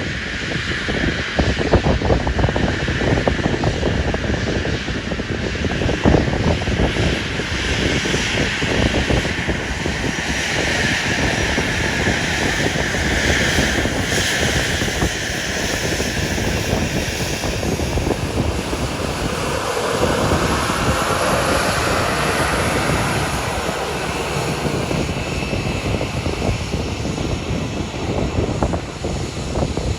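Airliner engines running loud and steady as an aircraft moves on the airfield, with a tone that sweeps downward about twenty seconds in.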